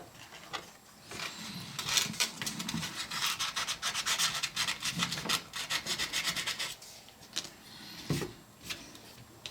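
Hand sanding with 400-grit sandpaper on a car seat trim panel: quick back-and-forth scuffing strokes that stop about seven seconds in, followed by a couple of light knocks. The surface is being scuffed so the epoxy will have something to grip.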